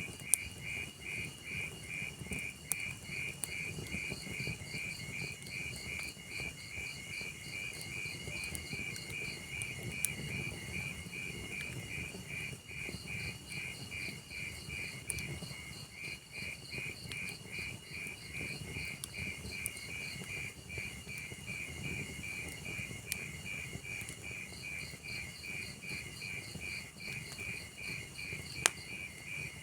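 Crickets chirping in a steady, even rhythm of about three chirps a second, over the low rumble of a log fire. A few sharp crackles from the burning logs, the loudest about half a second in and near the end.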